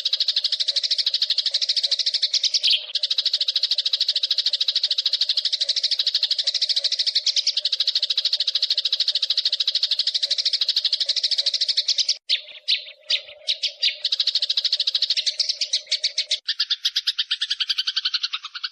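Eurasian tree sparrow (burung gereja) giving a long, rapid rattling chatter roll, the agitated call of a sparrow in a fight. It breaks into short stuttering bursts about 12 seconds in, then carries on at a slightly lower pitch near the end. A faint low hum runs underneath and cuts off about 16 seconds in.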